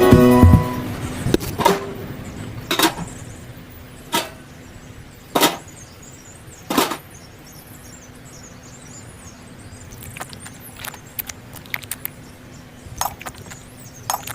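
A series of separate sharp knocks or taps, about one every second and a half, followed near the end by lighter, quicker clicks.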